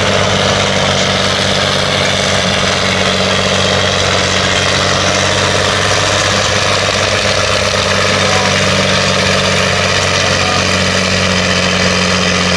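Heavy tractor-pulling engine running loud and steady at an even speed, with a deep hum and a hiss of noise above it.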